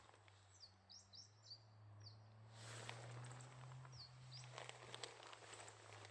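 Faint outdoor ambience with small birds giving short, thin, high calls that sweep downward, several times. A steady low hum and a couple of soft rustling swells lie underneath.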